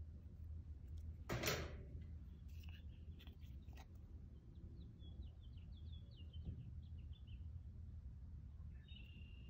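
Small birds chirping faintly over a low steady rumble, with a brief rushing noise about a second and a half in.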